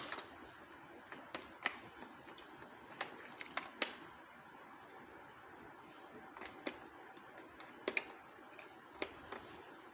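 Irregular small clicks and taps as a child works on a toy fire truck, a dozen or so scattered sharp clicks, with a quick cluster about three and a half seconds in and a pair about eight seconds in.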